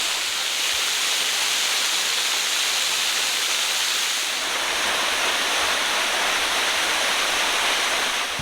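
Tuirihiau Waterfall: falling water rushing steadily.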